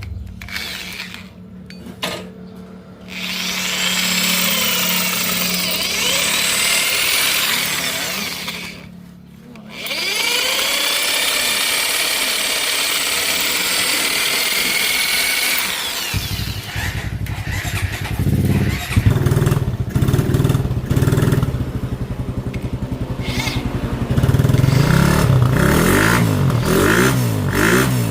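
A power drill runs in two long stretches, its whine rising and falling as it speeds up and slows. About sixteen seconds in, a low motorcycle-engine rumble takes over and keeps running.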